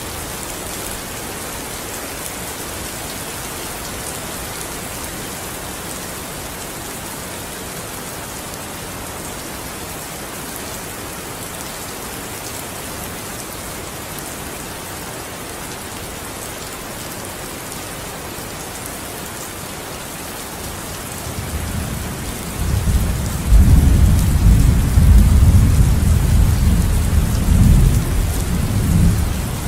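Steady rain falling, an even hiss. About two-thirds of the way through, a long low roll of thunder builds up, stays loud for several seconds and eases off near the end.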